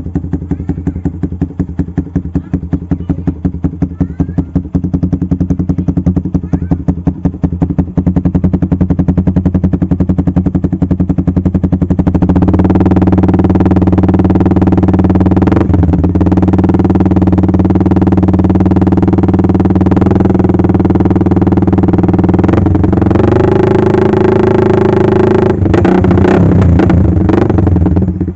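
Yamaha Vixion's single-cylinder four-stroke engine running through a WRX GP6 aftermarket silencer, idling with an even pulse. About twelve seconds in it is revved up and held at raised revs, climbs higher again a little later, then drops back toward idle near the end.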